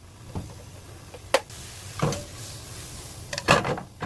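Cookware and kitchen utensils knocking and clinking a few times, with a cluster of clatter near the end and a short soft hiss in between.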